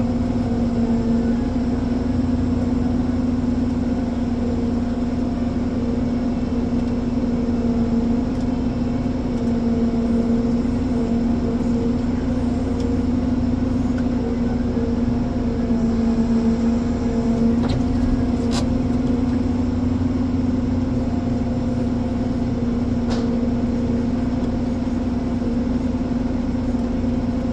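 Ponsse Elephant forwarder's diesel engine running steadily, a constant mechanical hum, with a slight dip and recovery in pitch a little past halfway.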